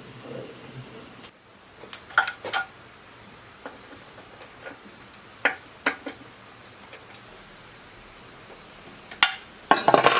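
Scattered sharp metal clinks and knocks from tools and metal parts being handled during hand work, ending in a quick burst of clatter.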